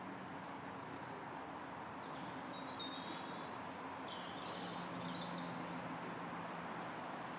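Small birds giving short, high chirps every second or two, with two sharp ones close together about five seconds in, over steady background noise.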